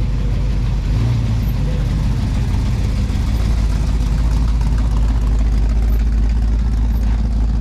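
Car engine idling with a steady low rumble, and faint voices under it.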